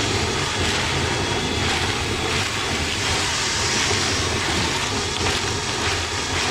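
Power drill spinning a rotary cleaning brush inside a lint-clogged dryer vent duct, running steadily and loudly with a low hum.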